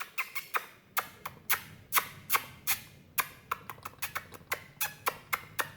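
Lovebirds chirping: a quick, uneven series of short, sharp, harsh chirps, about two to three a second.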